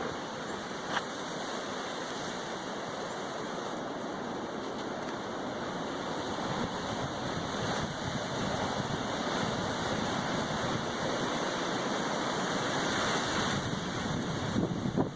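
Strong, loud wind rushing steadily, slowly building in strength toward the end, with a single short tap about a second in.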